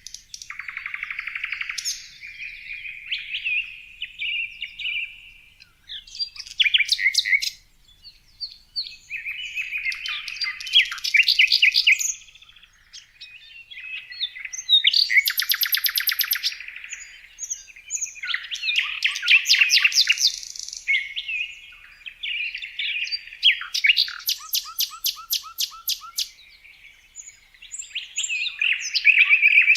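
Songbird singing a varied song in phrases of a few seconds each, made of fast trills and chirps, with short pauses between phrases.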